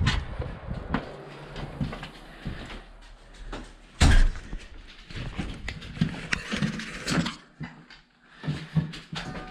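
Scattered knocks and clatter of handling, with one loud thump about four seconds in.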